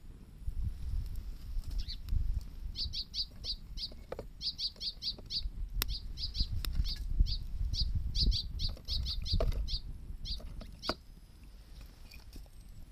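A small bird calling: a rapid string of short, high, downward-sliding chirps in quick clusters, starting about three seconds in and stopping near the end. Underneath are a steady low rumble and a few sharp pops, the kind a campfire gives off.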